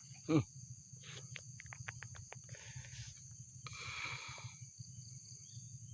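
Steady high-pitched drone of insects, with a quick run of small clicks and two short rustling noises partway through.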